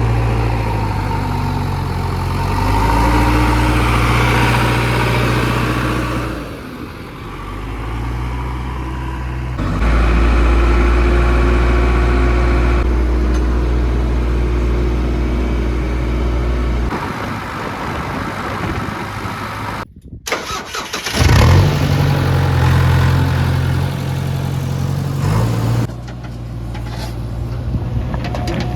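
Heavy diesel engines of a backhoe loader and tractor running under load. The engine note shifts and changes abruptly several times, and cuts out briefly about twenty seconds in.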